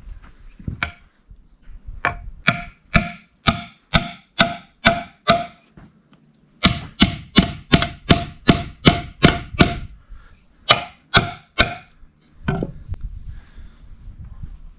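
Hammer blows on metal, each with a short ringing tone, coming about two a second in several runs of three to nine strikes with brief pauses between.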